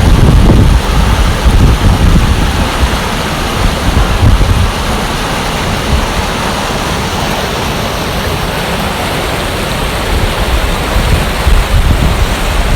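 Fast-flowing stream rushing steadily, with wind buffeting the microphone in gusts near the start and again near the end.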